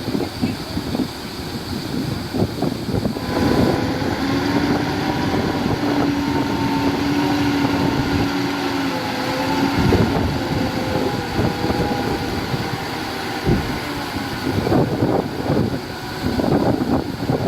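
Heavy diesel construction machinery running, with a steady engine hum that is plainest from a few seconds in to about ten seconds, over irregular clanking and rattling.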